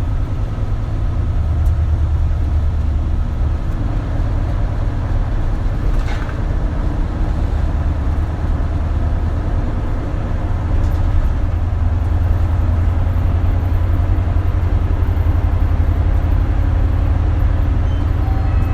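Interior running sound of an Isuzu KL-LV280L1 city bus, a steady low diesel engine drone with road noise; the drone gets a little fuller about halfway through.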